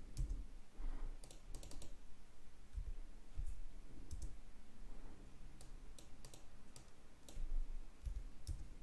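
Scattered clicks of a computer mouse and keystrokes on a keyboard, some in quick runs of several clicks, with a few low dull thumps in between.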